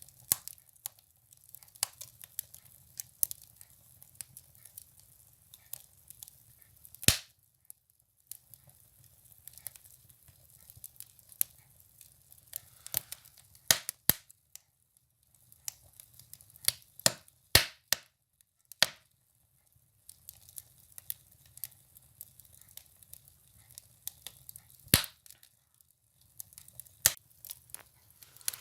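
Firewood burning in a wood stove, crackling with irregular sharp pops. A few louder snaps stand out, about seven seconds in, around fourteen and seventeen seconds, and near twenty-five seconds.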